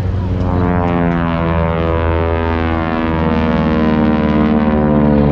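Propeller aircraft droning steadily, its many-pitched hum holding almost level in pitch.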